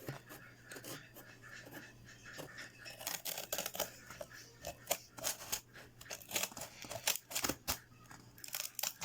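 Scissors cutting through cardboard: a run of short, irregular snipping crunches, coming thicker from about three seconds in.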